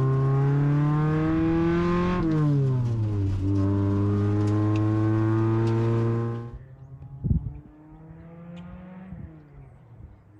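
Honda Civic hatchback's four-cylinder engine accelerating hard, the revs climbing, dropping at an upshift about two seconds in, then climbing again. About six and a half seconds in it gives way abruptly to a much quieter engine hum, with a single thump shortly after.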